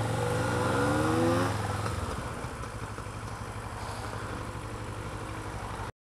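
Kawasaki ER-6f parallel-twin motorcycle engine accelerating, its pitch climbing for about a second and a half, then settling to a quieter steady run. The sound cuts off suddenly near the end.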